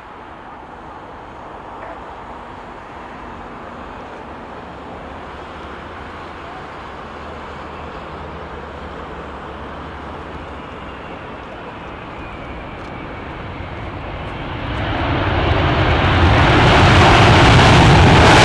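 Airbus A380's four jet engines: a steady distant rumble and rush that swells sharply near the end as the airliner comes close.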